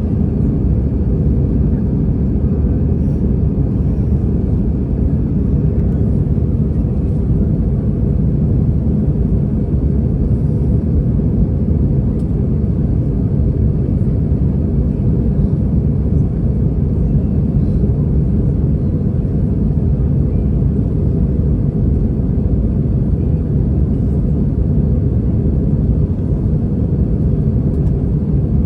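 Steady low rumble inside the cabin of an Airbus A320-214 under engine power: its CFM56 turbofans and the rush of air along the fuselage, with no change in pitch or level.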